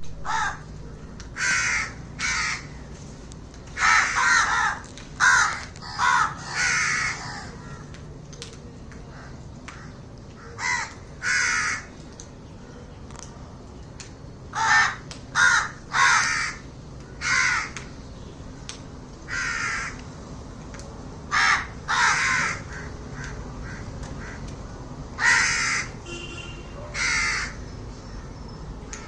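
Birds giving loud, harsh, noisy calls one at a time, about twenty of them at irregular intervals, some in quick pairs or runs.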